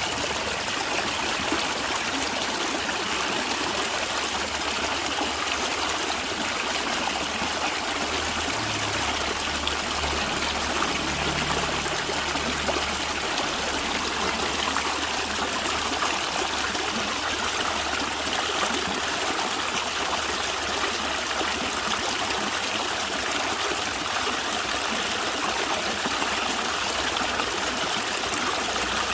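A natural stream running steadily over stones, trickling and gurgling.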